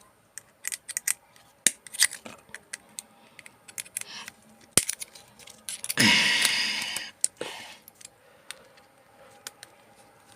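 Small metal parts of a microwave being pried and handled during dismantling: a run of light clicks and ticks, with a louder scraping rasp about six seconds in and a shorter one just after.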